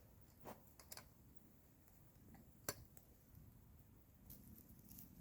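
Near silence with a few faint, sharp clicks scattered through it, the loudest a little before the middle.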